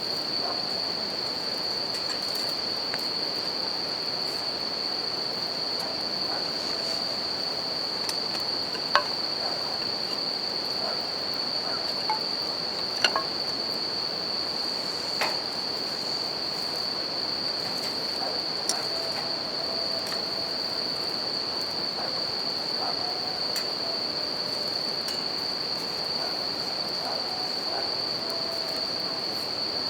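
Japanese bell crickets singing in a steady high trill over the even rush of a river, with a campfire giving a few sharp crackling pops, the loudest about nine seconds in.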